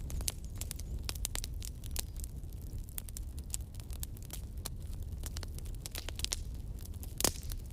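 Wood logs burning in a fireplace, crackling with many irregular sharp pops over a low steady rumble. One louder pop comes near the end.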